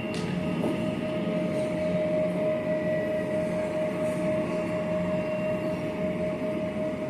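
Steady machine drone with a continuous high whine held at one pitch, over a low rumble; a short sharp click right at the start.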